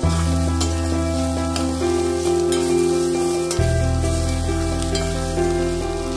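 Chopped vegetables sizzling in oil in a stainless-steel pan while a metal spoon stirs them, with short scrapes and clinks of the spoon on the pan. Background music of held chords plays under it, changing chord about halfway.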